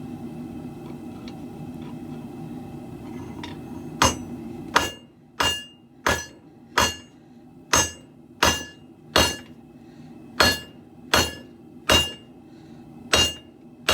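Forging hammer striking steel on an anvil in a steady rhythm, about one blow every two-thirds of a second, each blow ringing. Before the hammering starts, about four seconds in, there is a steady low hum.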